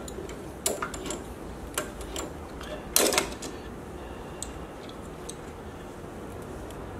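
Metal parts being handled on a drill press setup: a series of sharp clicks and knocks, the loudest about three seconds in, then a few faint ticks over a steady low hum.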